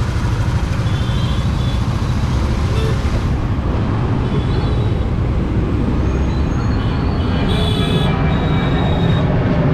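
Steady, loud road and traffic noise while riding a scooter in city traffic, with wind rushing over the microphone. A few short high beeps sound about one, three and eight seconds in.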